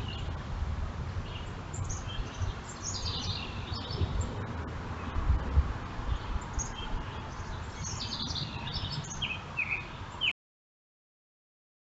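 Several small birds chirping in quick, short notes, over a low steady rumble. The sound cuts off abruptly about ten seconds in.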